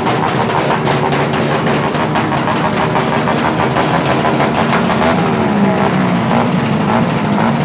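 Loud, steady engine noise from motorcycle engines running, with pitch wavering up and down in the second half.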